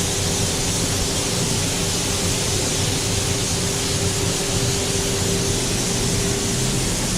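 Paint spray booth running: a steady rushing hiss of moving air with a constant motor hum underneath.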